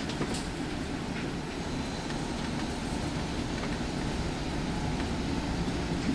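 Interior of a Solaris Urbino 8.9 LE electric city bus on the move: a steady, low rolling rumble with a few faint rattles and clicks.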